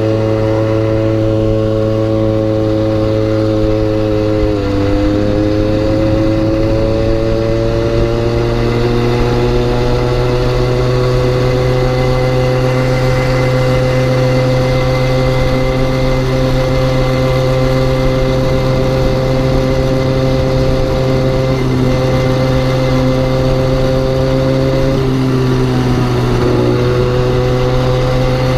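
Malaguti pit bike's 40 cc two-stroke engine running under way at fairly steady revs. The revs dip briefly about four seconds in and climb slowly back, with another short dip near the end.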